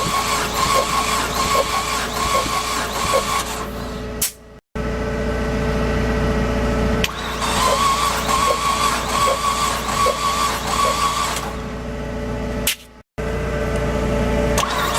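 Mazdaspeed L3 2.3-litre turbo four-cylinder being cranked over on its starter motor for a compression test. The starter gives a steady wavering whine with a faint regular pulse about every 0.8 s. The cranking stops and restarts abruptly twice, with a lower steady hum in between.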